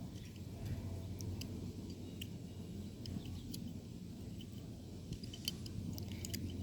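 Small plastic toys being handled and pushed through dirt: scattered faint clicks and scrapes over a low, steady rumble.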